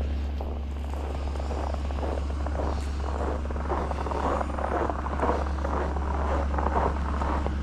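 Truck engine idling steadily after a cold start at 3 below, a constant low drone, with irregular crackly noises over it.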